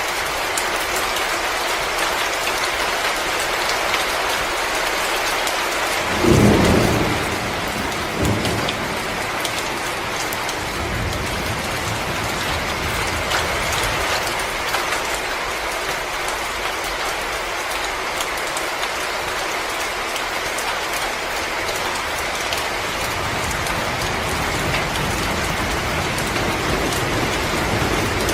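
Wood fire crackling: a steady hiss dotted with sharp little pops. About six seconds in comes a loud low thump, the loudest moment, followed by a smaller one and a brief low rumble.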